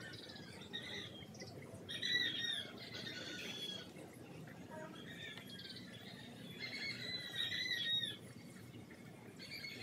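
Bird squawking, a harsh call repeated about six times, each lasting under a second to about a second and a half, with gaps in between.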